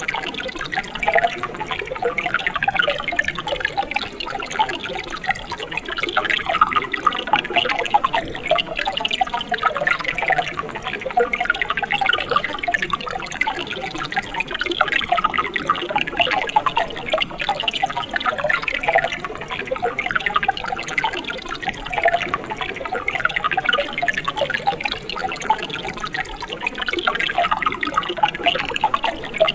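Mountain stream water trickling and splashing, a steady babble of many small splashes.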